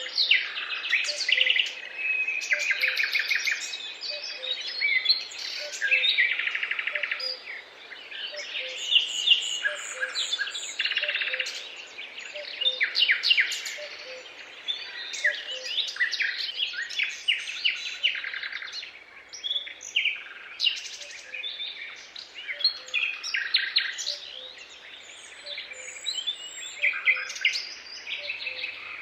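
Several songbirds singing at once, a dense chorus of overlapping chirps, trills and warbles. Underneath runs a faint low note that repeats about once a second.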